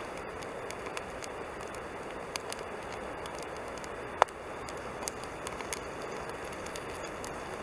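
Wood campfire crackling, with scattered small pops over a steady hiss and one sharp snap about four seconds in.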